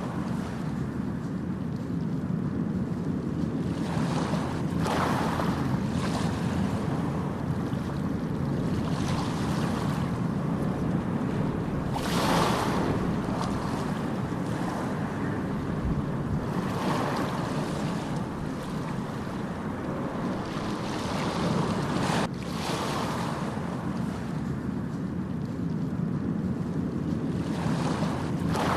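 Ocean surf: a steady wash of waves with a wave breaking and surging up every four to five seconds. There is a momentary break in the sound about three-quarters of the way through.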